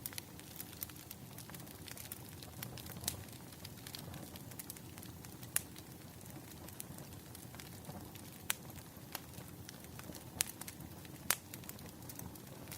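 Burning firewood crackling: irregular sharp pops and snaps over a steady low rumble of flame.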